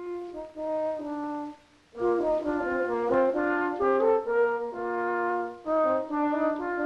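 Background music played by brass instruments, led by French horn: a single melodic line at first, then from about two seconds in fuller held chords that change every half second or so.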